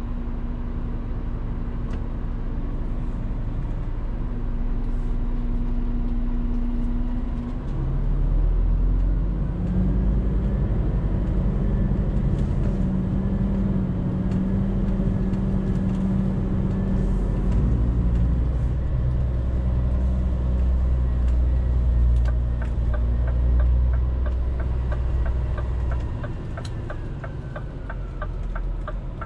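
Scania truck's diesel engine, heard from the driver's seat as a steady low drone. It pulls harder and louder from about a quarter of the way in, then eases off near the end, when a regular ticking starts.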